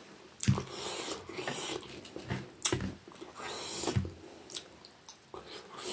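Close-miked chewing and wet mouth smacks of someone eating rice and fish curry by hand, with sharper smacks about half a second, about two and a half seconds and about four seconds in.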